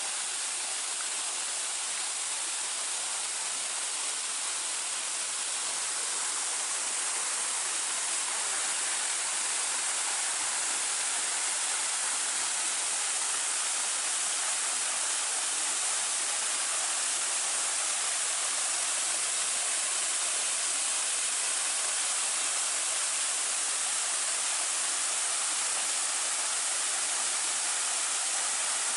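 Waterfall: water falling and splashing in a steady rushing hiss that swells slightly over the first several seconds.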